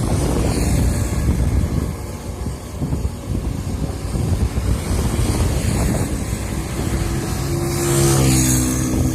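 Excavator's diesel engine running under load, with wind on the microphone; the engine note grows louder and clearer near the end.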